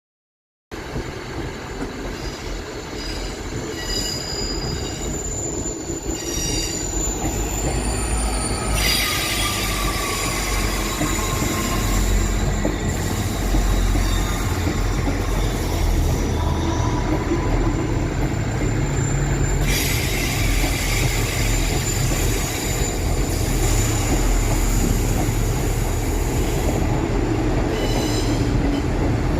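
A diesel train moving through the station with its wheels squealing on the rails over a continuous low engine and wheel rumble that grows louder over the first ten seconds. A falling squeal comes around eight seconds in, and a loud hiss runs from about nine to twenty seconds in.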